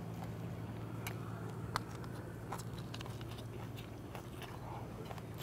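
A person chewing and biting into soy-sauce fried chicken, with short wet mouth clicks scattered throughout, over a steady low hum.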